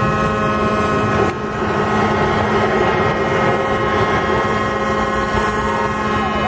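Large ship launch: a loud, steady rush of noise with several steady held tones over it, and a brief break about a second in.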